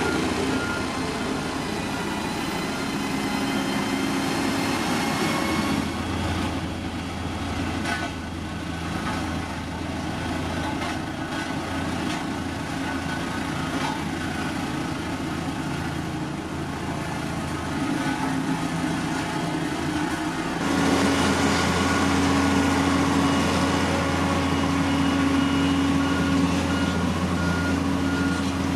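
Heavy construction machine's diesel engine running steadily. About two-thirds of the way in, the sound changes abruptly and a reversing alarm begins beeping at an even pace over the engine.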